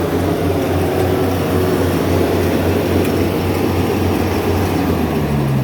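Yanmar 70V combine harvester's diesel engine running steadily while it cuts rice, a loud low drone with an even, regular pulsing.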